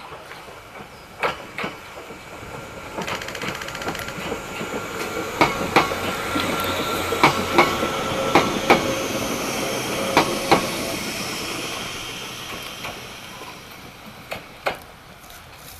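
A Choshi Electric Railway 22000-series electric train passing by: its running noise builds and fades away. The wheels clack over rail joints in pairs, and a steady whine is heard as it goes by.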